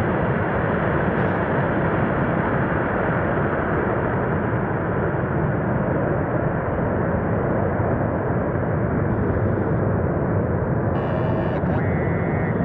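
Jet engine noise from a formation of Blue Angels F/A-18 Hornets climbing out just after takeoff, a steady rushing sound.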